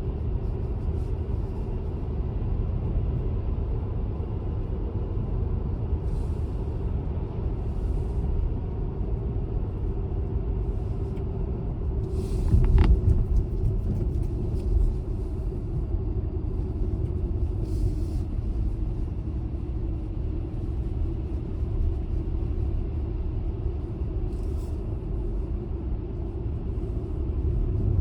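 Car driving, a steady low rumble of engine and tyres on the road, with a brief louder noise about halfway through.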